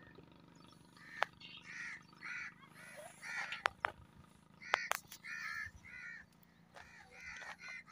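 A bird giving repeated harsh, caw-like calls in short runs of two to four, with a few sharp clicks between them.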